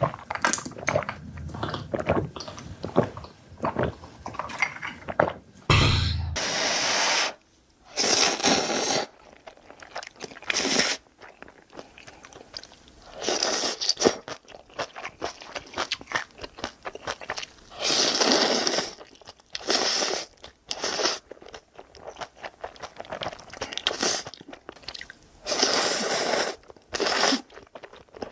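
Close-miked eating of spicy noodles: repeated slurps of about a second each, with chewing and small mouth clicks between them.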